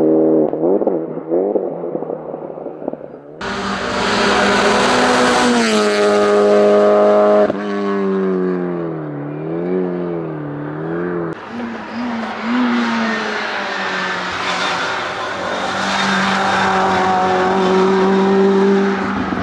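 Hillclimb race car engines at high revs, pitch climbing and stepping through gear changes, then dipping and rising again as the throttle is worked. The sound changes abruptly twice, from one car to another.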